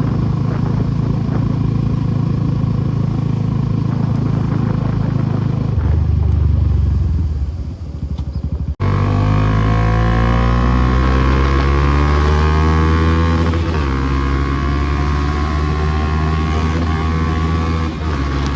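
Suzuki Gixxer SF250's single-cylinder engine through an aftermarket Akrapovic exhaust, riding at a steady engine speed, then after a brief cut accelerating with the pitch rising steadily, with one gear change about three-quarters of the way through.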